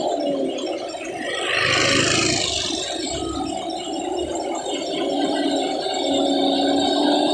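Heavy trucks' diesel engines working on a steep uphill climb, with rattling. A short burst of hiss comes about two seconds in, followed by a low rumble.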